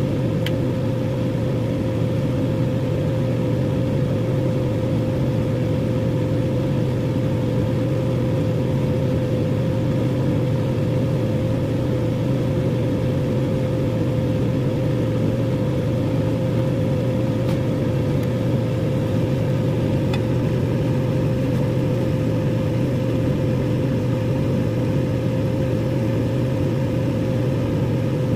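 Microwave oven running: a steady electrical hum with a constant tone, and a few faint ticks.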